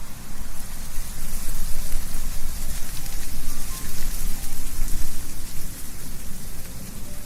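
Wind blowing through trees, leaves rustling in a steady hiss over a low wind rumble, rising and falling in gusts.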